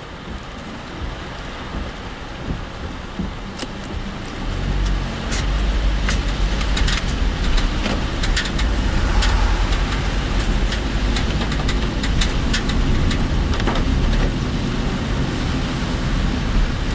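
Inside a car driving through typhoon rain: steady rain noise with scattered sharp ticks, and engine and road rumble that grows louder about four and a half seconds in.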